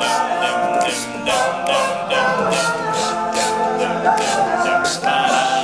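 All-male a cappella group singing a song intro in close harmony, with backing voices on sustained syllables and vocal percussion keeping a steady beat.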